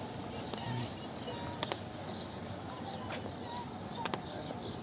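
Ambient sound of a busy promenade: a steady murmur of passers-by with faint snatches of voices, broken by a few sharp clicks, two of them quick pairs about a second and a half in and again near the end.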